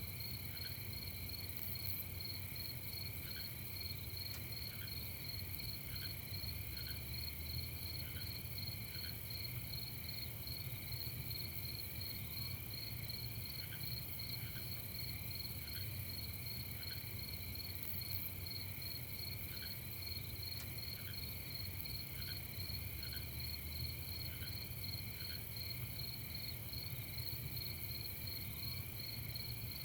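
Night chorus of crickets trilling steadily at several pitches at once, with a lower short chirp repeating roughly once a second, over a faint low rumble.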